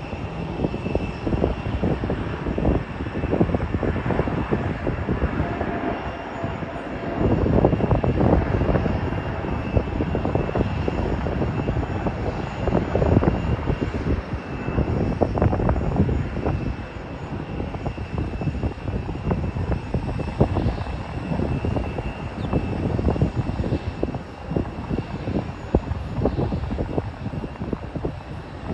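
Jet aircraft engine sound with a steady high whine, under heavy, irregular wind buffeting on the phone's microphone.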